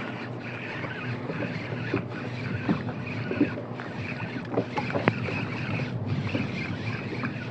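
Water moving around a fishing kayak at sea, a steady wash with scattered small knocks and clicks against the hull and gear; the sharpest knock comes about five seconds in.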